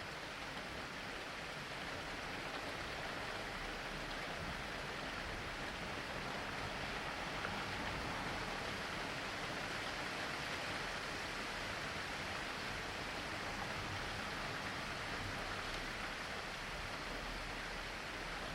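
Steady rain falling: an even hiss that grows slightly louder around the middle.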